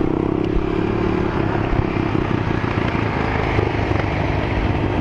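Motorcycle engine running at low speed as the bike slows to pull over. A steady engine note fades over the first couple of seconds, leaving a rough low rumble.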